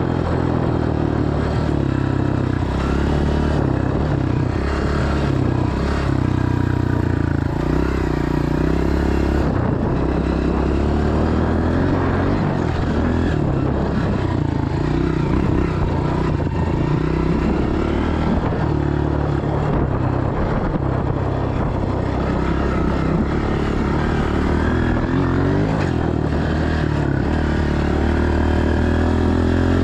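Dirt bike engine running, revving up and easing off several times, its pitch rising and falling.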